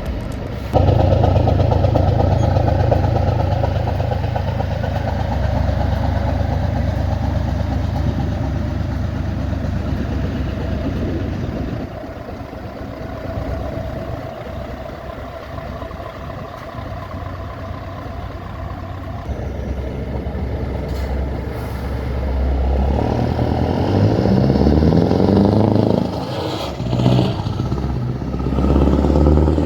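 A motor vehicle's engine running, coming in loud about a second in; near the end its pitch rises and falls several times.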